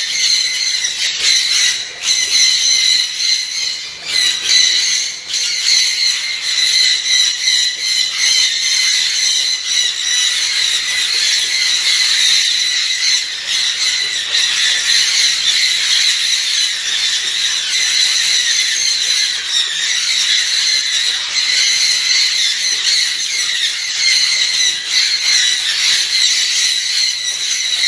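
Many small birds chattering and squealing without pause in a high-pitched squabble.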